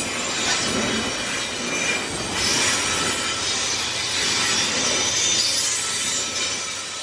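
Container freight wagons rolling past close by: a steady rush of steel wheels on the rails. High-pitched wheel noise swells about two and a half seconds in and again around five seconds.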